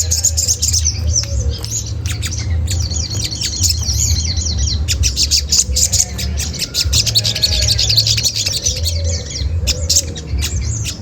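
Olive-backed sunbird giving a rapid, dense run of high-pitched 'cret cret' chirps, the male's challenge call used as a lure to draw rival birds into answering. A steady low hum runs underneath.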